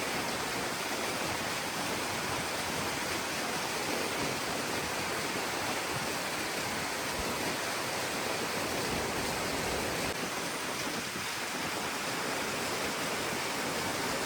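Steady, even rush of falling water, unbroken throughout.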